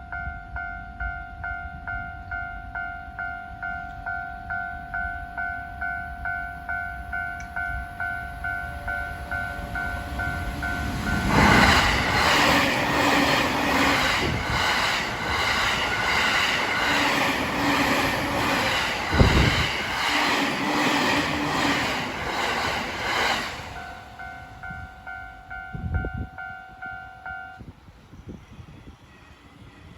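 A Japanese level-crossing alarm rings its repeating two-note electronic ding. About eleven seconds in, a Tokaido Line train passes at speed for about twelve seconds, its wheels clattering rhythmically over the rail joints and drowning out the bell. The bell then rings on briefly and stops near the end.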